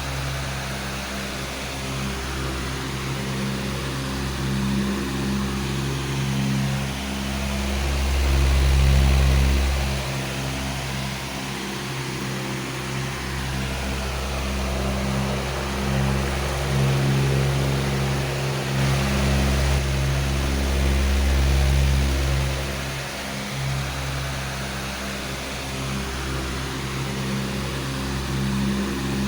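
Powerful electric fan running steadily: a low motor hum under a broad rush of air. It swells louder and eases off every several seconds.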